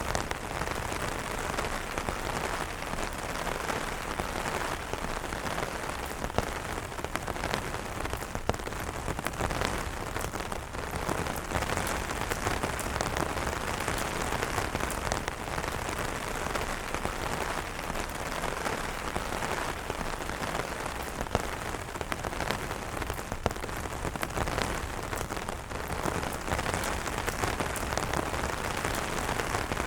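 Steady rain falling on umbrellas, with many individual drops ticking sharply through a constant hiss.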